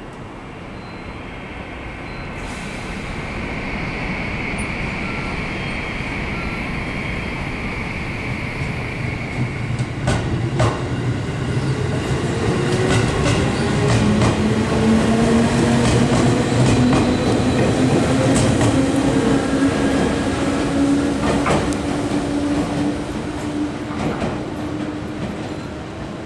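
A 211 series electric commuter train pulling away from a station platform. Its traction motors and gears whine, rising slowly in pitch as it gathers speed, and from about a third of the way in the wheels click over the rail joints. The sound grows loud as the cars pass and fades near the end as the train moves off.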